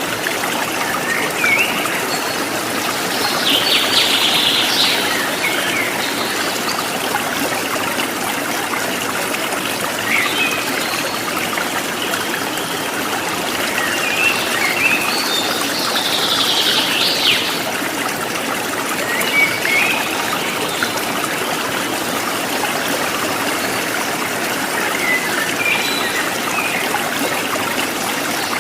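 A stream running steadily, with birds chirping over it in short calls every few seconds, two longer bursts of song about a quarter of the way in and just past the middle.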